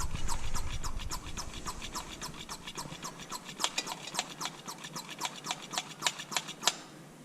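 Hand-held vacuum brake bleeder pump being worked rapidly, a fast run of sharp clicks at about six a second, drawing brake fluid and air out through the front brake's bleeder. The clicking stops about half a second before the end.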